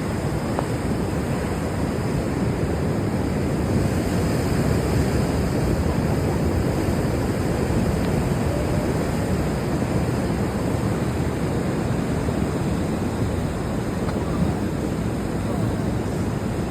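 Muddy floodwater of a flash flood rushing down a creek channel in surging waves, a steady, heavy rush that sounds like the ocean.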